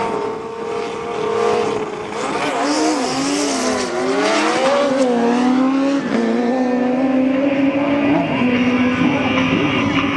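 Drag-racing engines running hard on a fast pass down the strip. The engine pitch wavers up and down through the middle, then holds steady and loud.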